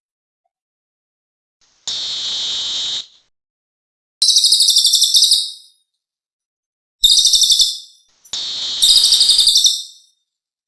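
Cililin birdsong: four high, buzzy phrases of about a second each with short silences between. The first is a steady note, the next two are fast pulsing trills, and the last begins as a steady note and breaks into a trill.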